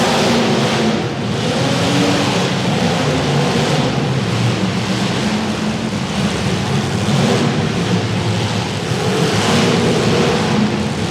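Engines of several demolition derby cars running and revving together, their pitch rising and falling, loud and continuous.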